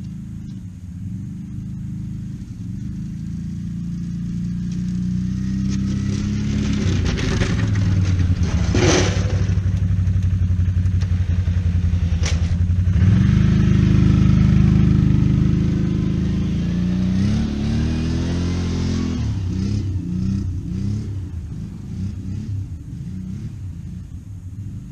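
A motor vehicle engine running and changing speed. It grows louder toward the middle of the stretch, then gives a run of short quick revs near the end.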